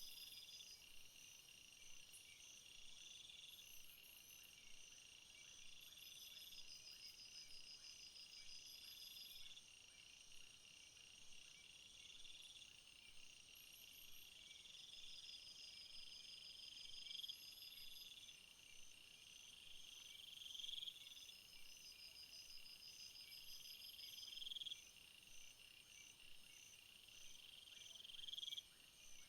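Faint chorus of crickets and other insects: several overlapping high trills and pulsing chirps, with one louder buzzing phrase that swells and cuts off about every three seconds.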